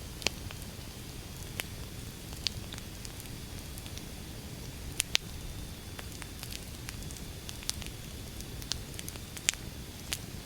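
Wood fire burning: a steady low rumble with irregular sharp crackles and snaps. The loudest snaps come about half a second in, twice around five seconds in, and about a second before the end.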